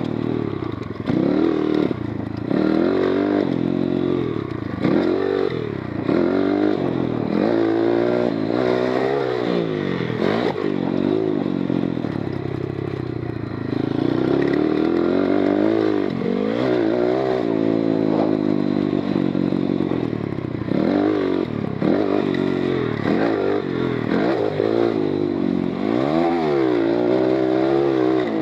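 GIO X33 140cc oil-cooled single-cylinder four-stroke pit bike engine being ridden hard on a motocross track, revving up and dropping off again and again, its pitch rising and falling every second or two.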